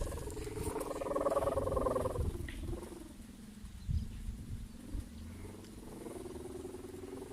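A kite's sendaren (bowstring hummer) droning in the wind with a wavering, several-toned hum, strongest in the first two or three seconds and then fading to a softer, lower drone. Wind rumbles on the microphone, with a couple of thumps.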